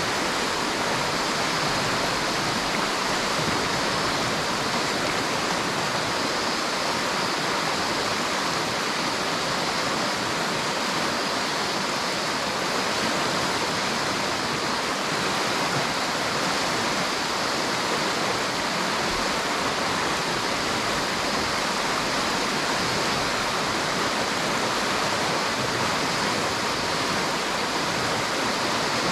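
River water rushing steadily, an even hiss with no change in level.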